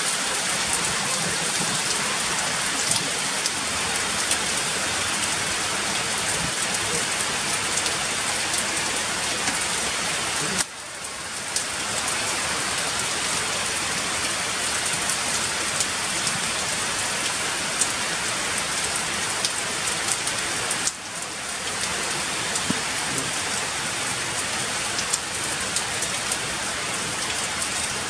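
Heavy rain falling steadily on stone paving, a dense hiss with scattered sharper drip clicks. The sound dips suddenly twice, about a third and two thirds of the way through, and swells back within a second.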